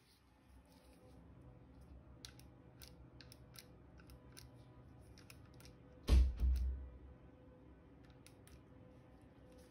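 Quiet handling noise: scattered small clicks, with a heavier knock about six seconds in.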